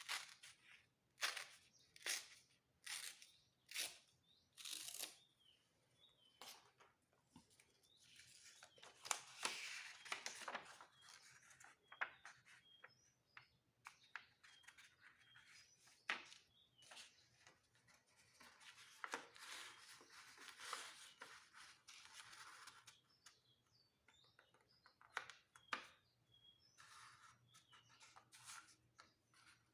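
Sheet of paper being folded and creased by hand: repeated sharp crinkles and rustling, with longer stretches of rustle about a third of the way in and again past the middle.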